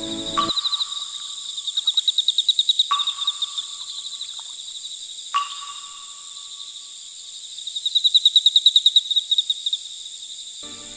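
Insect chirping in rapid pulsed trills, coming in three bursts, with three short sharp calls that drop in pitch and then hold a lower note.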